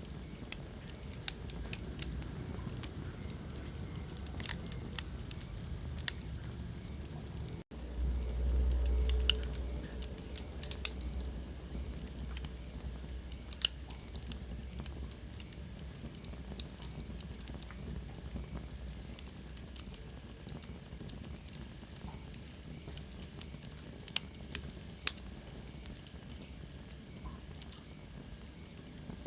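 Wood fire crackling in a fireplace: irregular sharp pops and snaps over a steady low rumble of the flames. The sound cuts out for an instant about eight seconds in, then the low rumble swells for a couple of seconds.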